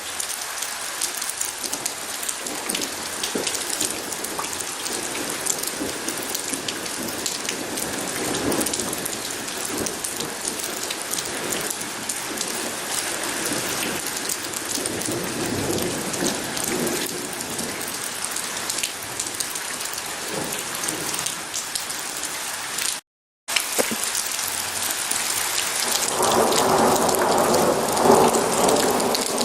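Steady rain falling, with low rumbles of thunder. The sound cuts out completely for about half a second three-quarters of the way through, then comes back fuller and louder near the end.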